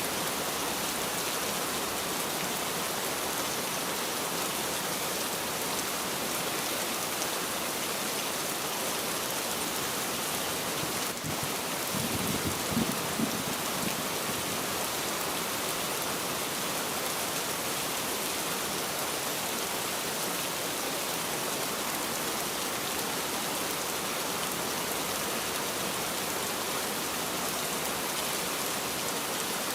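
Steady rain falling in an even hiss, with a brief low rumble near the middle.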